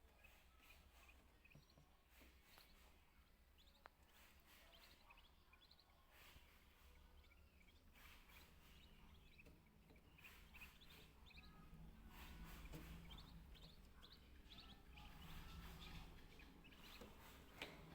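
Faint, scattered high bird chirps, coming thicker about halfway through, over a low background hum.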